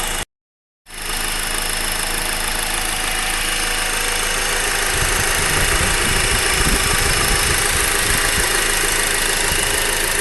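Honda Accord four-cylinder engine idling steadily under the open hood, with a clattery note that sounds almost like a diesel engine; the owner hears the noise coming from the engine block. The sound cuts out completely for about half a second near the start.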